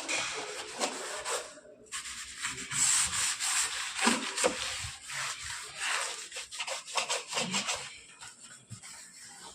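Rapid scrubbing strokes rubbing over a refrigerator's surface during cleaning. There is a short break about two seconds in, and the strokes grow quieter near the end.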